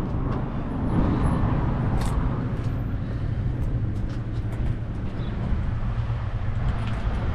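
A steady low mechanical hum, like an idling engine, under general outdoor background noise, with a few faint ticks.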